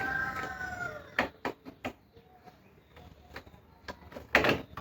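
A rooster crowing, one long call that dips slightly at the end and stops about a second in. It is followed by a few scattered light clicks and knocks.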